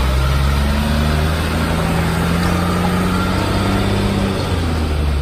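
2007 Freightliner bucket truck's diesel engine running as the truck moves off, its note shifting slightly in pitch over a steady low rumble.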